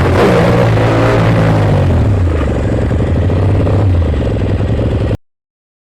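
Ducati Monster S2R's air-cooled L-twin engine running through its exhaust; the revs drop back about two seconds in and it settles to a steady idle. The sound cuts off abruptly about five seconds in.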